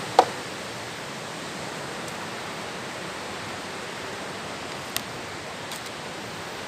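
Steady rush of flowing river water. A short sharp sound comes just after the start, and a faint click about five seconds in.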